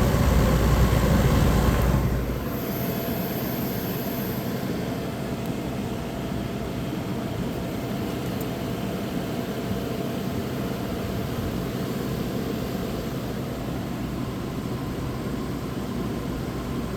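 1985 White Westinghouse window air conditioner running, its rotary compressor and fan making a steady hum. About two seconds in, the heavy low rumble drops off sharply and the unit carries on at a lower, even level.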